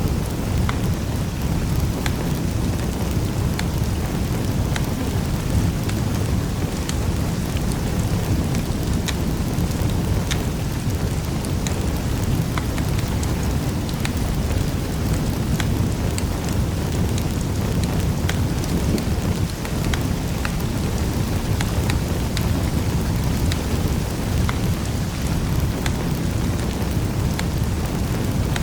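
Wood fire burning in a fireplace: a steady low roar with irregular sharp crackles and pops, a few each second.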